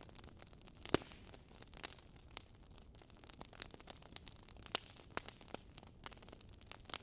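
Wood fire crackling: irregular snaps and pops over a faint hiss, with one louder pop about a second in.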